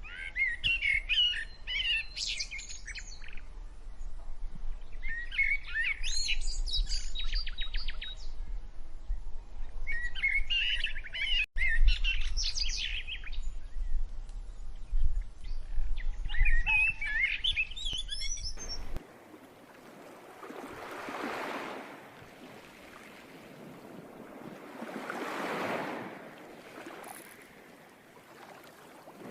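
Birds calling in four bursts of chirps and warbling trills, over a low rumble. About two-thirds of the way through it cuts suddenly to surf: waves washing in and drawing back, one swell every four or five seconds.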